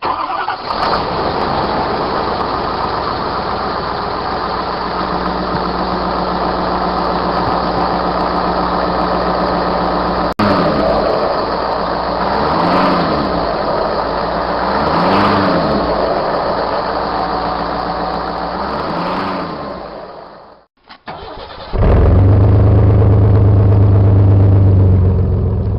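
Truck engines in a run of short clips: one running steadily, then one revved up and back down several times, then a loud, deep-pitched engine running near the end.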